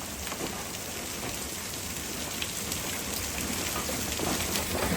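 Hailstones about quarter size falling with heavy rain, a dense, steady patter of many small hits that grows slightly louder.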